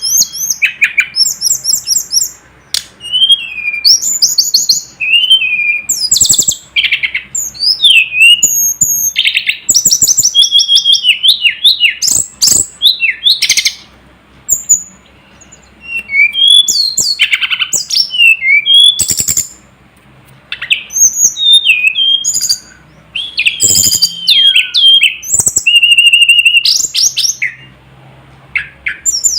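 A tledekan gunung (sulingan gunung) songbird singing a fast run of varied high whistled phrases and quick trills, broken by short pauses.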